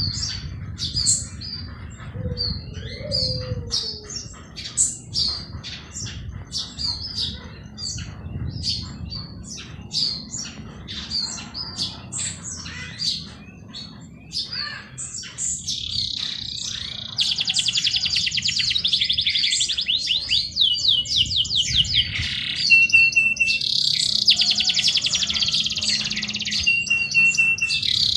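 Several songbirds chirping with short, quick notes, then from about halfway through one or more birds sing long, rapid trills that dominate, over a faint low background rumble.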